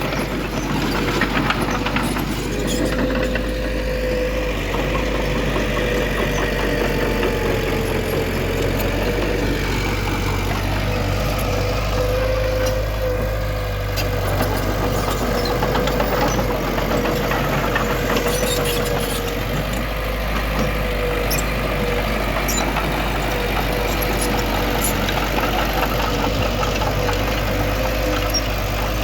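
Diesel engine of heavy earthmoving machinery running steadily, with a steady whine above the low engine note and scattered light clicks.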